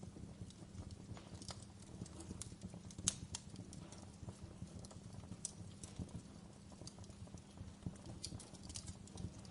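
Fire crackling: irregular sharp pops and snaps over a low steady rumble, with one louder pop about three seconds in.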